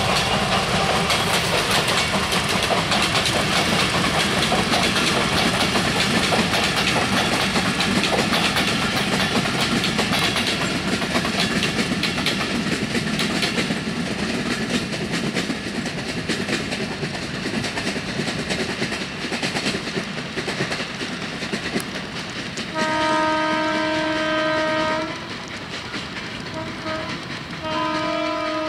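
Bangladesh Railway diesel-hauled passenger train passing, its wheels clattering over the rail joints with a steady rumble that slowly fades as it moves off. Later the locomotive's horn sounds one long blast of about two seconds, a couple of short toots, and a second blast at the end.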